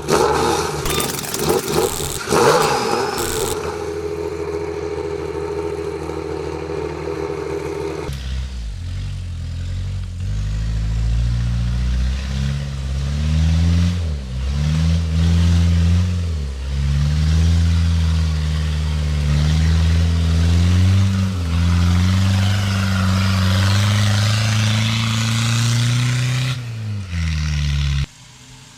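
Off-road 4x4 engine revving and labouring, its pitch rising and falling, with a run of clattering knocks in the first few seconds. The engine sound cuts off suddenly near the end.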